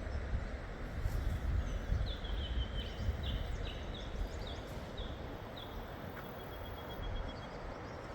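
A bird calling a quick series of about eight short, slightly falling chirps, ending in a faint thin trill, over a steady low rumble.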